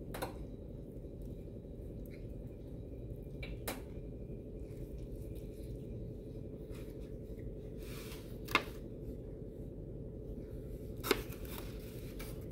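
A man chewing a bite of a soft-roll cheesesteak hoagie with his mouth closed, heard over a steady low room hum. Three short sharp clicks stand out: one about a third of the way in and two in the last third.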